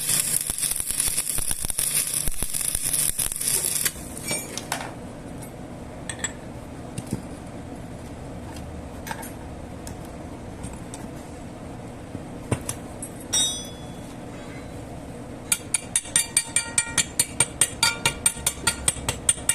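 Metalworking sounds: a loud rough hissing noise that stops abruptly about four seconds in, then scattered clicks and clinks. About three-quarters of the way through comes a rapid run of light metallic taps, about five a second, with a ringing tone.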